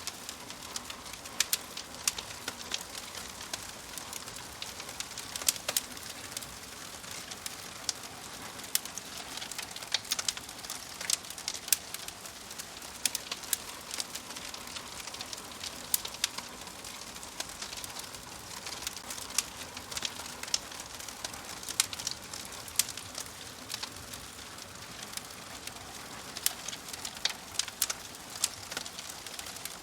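Wood logs burning in a fireplace, crackling with many irregular sharp pops and snaps over a steady hiss.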